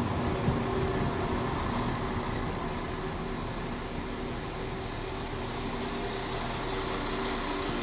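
Chiltern Railways diesel multiple unit moving past along the platform, its underfloor engines running with a steady hum and wheel and air noise.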